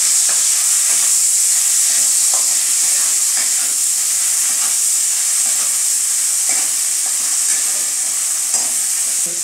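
Onions, tomatoes and spices frying in oil in a metal kadai, with a steady sizzle and a metal spatula scraping the pan in repeated stirring strokes.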